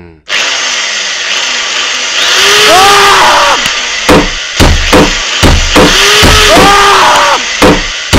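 Electronic sound-collage music made from workshop tool sounds: a loud, sawing-like noise with curving squeals, joined about four seconds in by a steady kick-drum beat.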